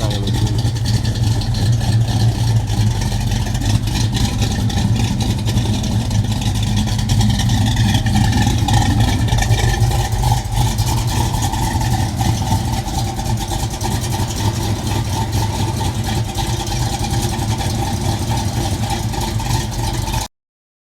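1984 Chevrolet Caprice engine idling steadily.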